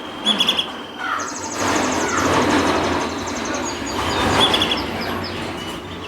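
Mosaic canaries chirping and trilling: short high trills near the start and again about four seconds in, and a long fast high trill in the first half. A broad rumbling background noise runs under them through the middle.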